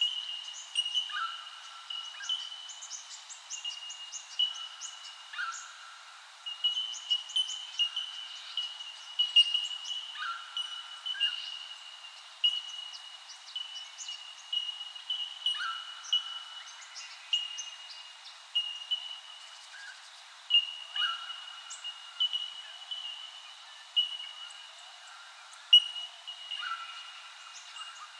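Birds calling in a natural soundscape. A short high note repeats over and over, less than a second apart. A lower, drawn-out call comes every five seconds or so, and scattered quick high chirps sit above them.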